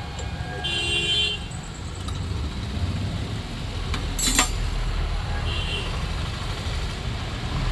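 A vehicle engine idling steadily, with a short horn toot about a second in and a sharp knock a little past the middle.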